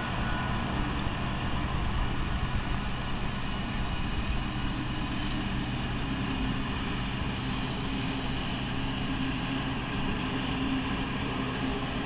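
A train running steadily: a continuous rumble with a faint steady hum over it and no sudden knocks.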